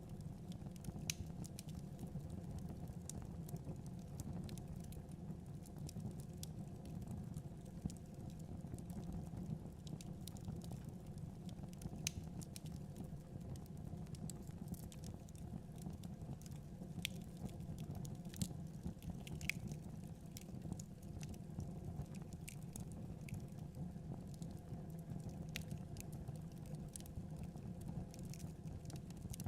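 Fireplace fire burning: a steady low rumble with irregular crackles and pops all through.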